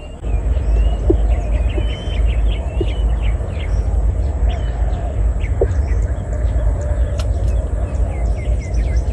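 Small birds chirping repeatedly, short quick calls, over a steady low rumble that comes in a moment after the start and is the loudest sound throughout.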